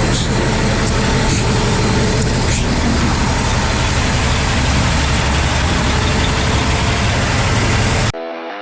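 Heavy diesel truck's engine running steadily, loud low rumble with an even rushing noise over it. It cuts off abruptly near the end and electric guitar music begins.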